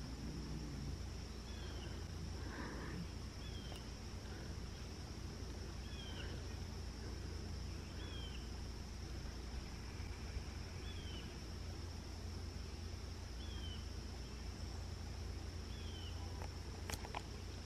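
Quiet morning woods: a bird repeats a short falling chirp about every two and a half seconds over a steady high-pitched hum and a low rumble.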